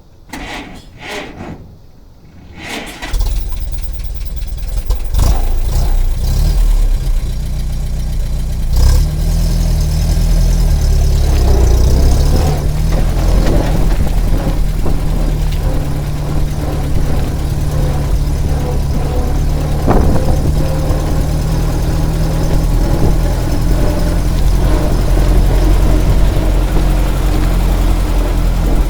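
1929 Chevrolet 171 cubic-inch OHV four-cylinder engine being cranked and catching about three seconds in, then idling steadily. It is briefly revved about nine seconds in. A single sharp click comes about twenty seconds in.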